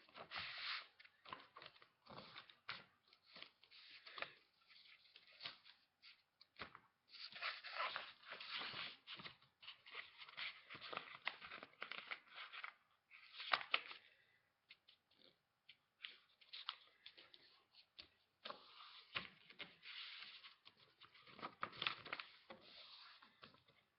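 A sheet of paper being folded and creased by hand into a paper airplane: irregular rustling and crinkling, with short sharp crackles as folds are pressed down.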